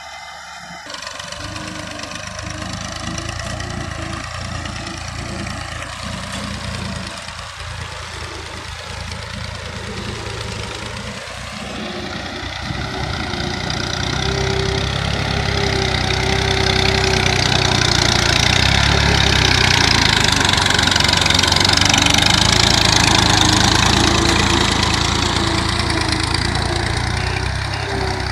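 Tractor engine running, growing louder from about halfway through and easing off again just before the end.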